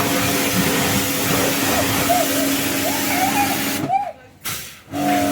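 Pressure washer running, a steady motor hum under the hiss of the spray, cutting out abruptly for about a second near the end and then starting again.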